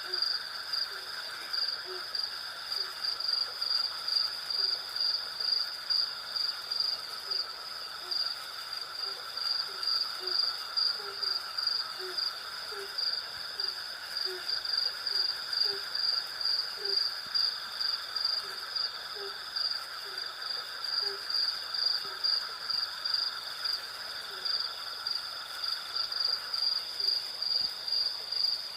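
Night chorus of crickets and cicadas: a steady, pulsing high trill over lower, steadier buzzing. Short low calls repeat about once or twice a second through roughly the first two-thirds, then drop out.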